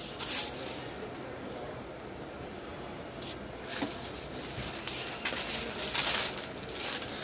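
Rustling and handling of a dress as it is picked up and spread out to show, in several soft irregular bursts with a longer stretch of rustling in the second half.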